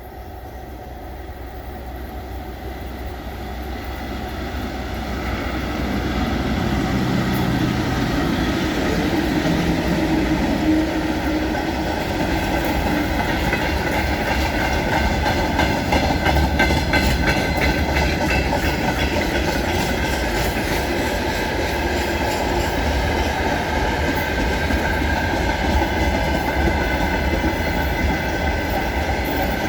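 Freight train hauled by a VL10u electric locomotive growing louder for the first six seconds or so as it comes close, then a steady loud rumble of wagons rolling past with a rapid clickety-clack of wheels over rail joints.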